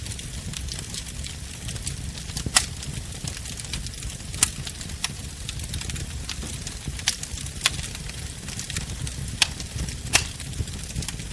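Wood fire burning, with a steady low rumble and a fine crackle, and a handful of sharp pops from the burning wood.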